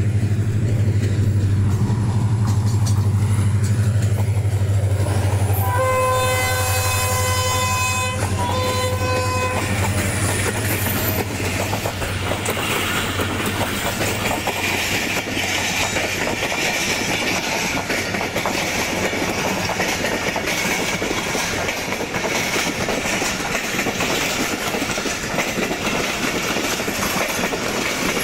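Pakistan Railways HGMU30 diesel locomotive running as it approaches, with a steady low engine hum. About six seconds in it sounds its horn in a long blast, then a shorter second one. After that the passenger coaches roll past, their wheels clattering over the rail joints.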